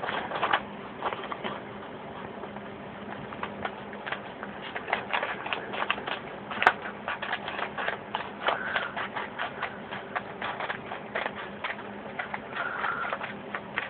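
Scissors cutting a sheet of paper: a long run of quick, irregular snips with paper rustling, and one sharper click about seven seconds in.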